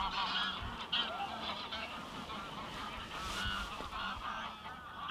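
A large flock of geese honking continuously, many calls overlapping one another.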